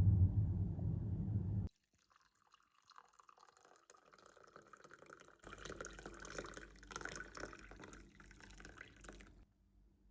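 Liquid pouring and dripping into a glass. A louder rushing sound cuts off abruptly near two seconds in, then faint, uneven pouring and drips follow, louder from about halfway, until near the end.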